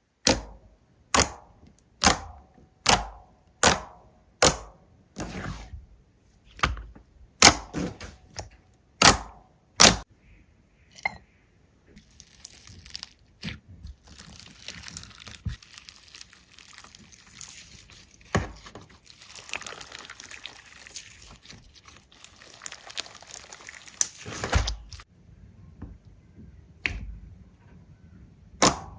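Hands squishing and slapping a large slime, a sharp wet smack about every three-quarters of a second for the first ten seconds. After that come a fainter continuous crackling and scattered pops as the slime is worked.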